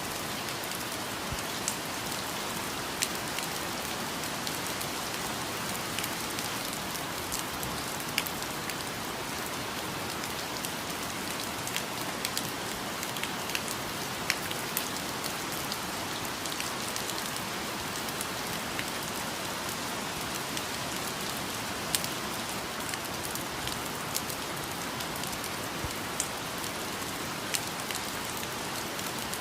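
Steady rain falling on foliage, an even hiss with individual drops ticking through it now and then.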